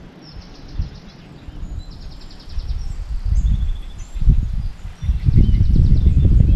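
Wind buffeting the microphone in gusts, a low rumble that rises and falls and grows loudest near the end. Short high, rapid chirping trills repeat in the background.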